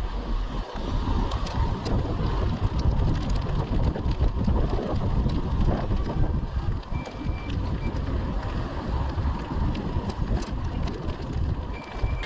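Wind buffeting the microphone while riding, a dense rumbling rush that fluctuates throughout. A short high beep sounds about seven seconds in and again near the end.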